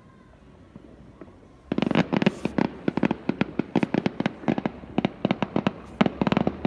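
Fireworks going off: after a quiet moment, a rapid string of sharp bangs and crackles starts about two seconds in and keeps going, several a second.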